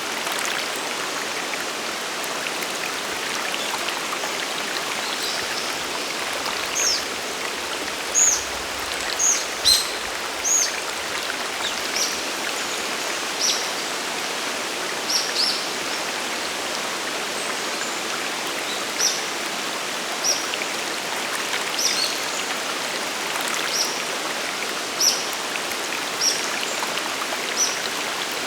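Waterfall and stream water rushing in a steady, even hiss. From about seven seconds in, a bird joins with short, high chirps, repeated roughly once a second.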